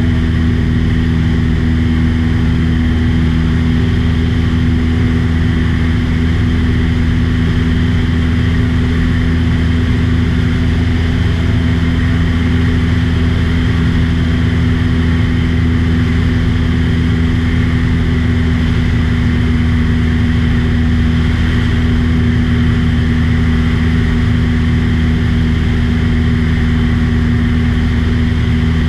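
Small aircraft's engine droning steadily in flight, a constant low hum that holds one pitch throughout.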